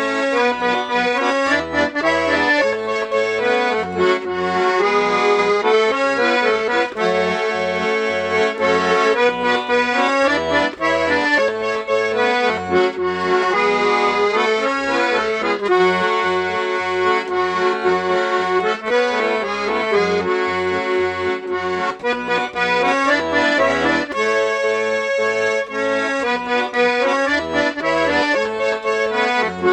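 Garmon (Russian button accordion) playing a lively tune: the right hand plays melody and chords over a steady rhythm of short bass-and-chord pulses from the left hand.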